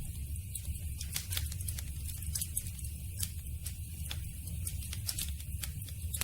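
Campfire burning, the wood crackling and popping in irregular sharp snaps over a steady low rumble.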